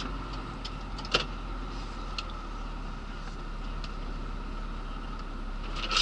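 Mercedes lorry heard from inside the cab: a steady engine and road hum, with scattered light clicks and a sharper knock about a second in, and a couple of louder knocks near the end.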